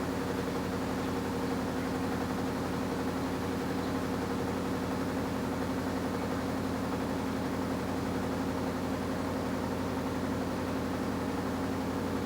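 AQUA washing machine's direct-drive inverter motor running steadily, a constant hum with a noisy whir over it.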